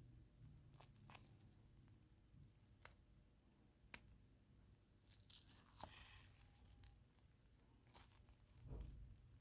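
Near silence with faint scattered clicks and soft tearing rustles: dissecting instruments cutting and separating a preserved cat's thigh muscle from its connective tissue.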